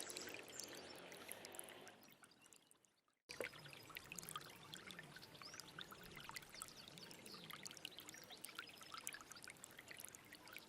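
Small stream running and trickling, with fine splashing ticks. The water sound fades out about two seconds in, drops to silence for a moment, then cuts back in abruptly a little after three seconds and runs on steadily.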